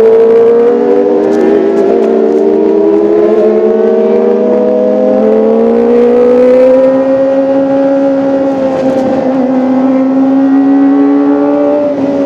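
Kawasaki ZX-25R's inline-four engine running at high revs, its pitch climbing slowly and steadily, with a brief dip near the end.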